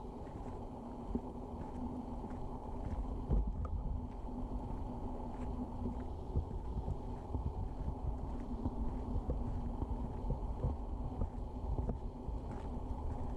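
Low, uneven rumbling with soft thumps and faint scattered ticks: outdoor wind and handling noise on a camera microphone carried on a walk.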